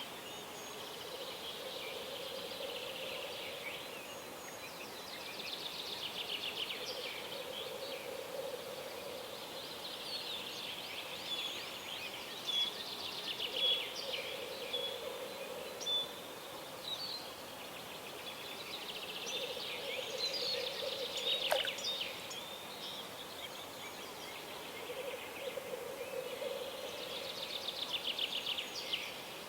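Songbirds singing at dawn, with trilled song phrases repeating every few seconds. A lower drawn-out hum recurs between them, and a single sharp click comes about two-thirds of the way through.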